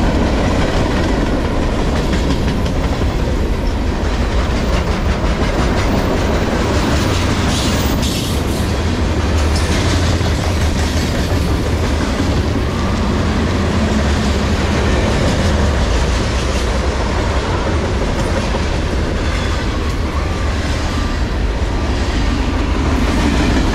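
Loaded manifest freight cars (boxcars, hoppers and tank cars) rolling past: a steady, loud rumble of steel wheels on rail with the clickety-clack of wheels over rail joints.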